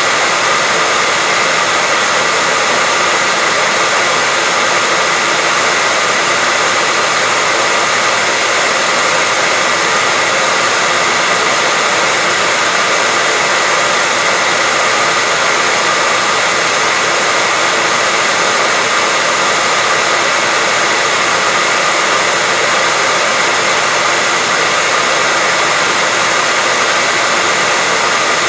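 Hair dryer running steadily: a continuous airy rush with a faint steady whine from the motor, unchanging throughout, played as a sleep sound for a baby.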